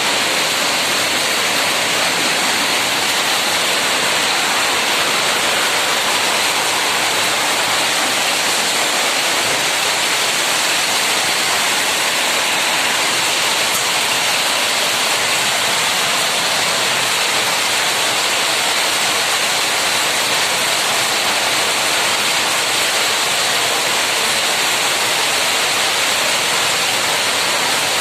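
Heavy rain pouring down, a loud, steady hiss that holds unchanged throughout.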